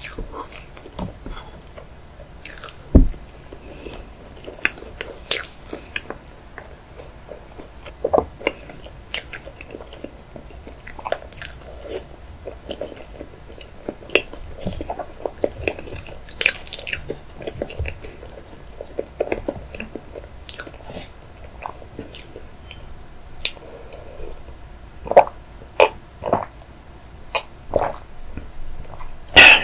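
A person eating chocolate layer cake close to the microphone: soft chewing with wet mouth clicks and smacks scattered throughout. A single low knock comes about three seconds in.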